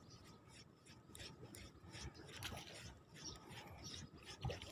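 Faint rustling and small clicks of close handling, with a soft thump about four and a half seconds in.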